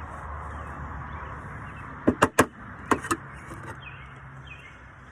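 Hive tool scraping burr comb off the wooden frame tops of an open beehive, with five sharp knocks in two quick groups, three just after two seconds in and two more about a second later. A steady buzz of many honeybees runs underneath.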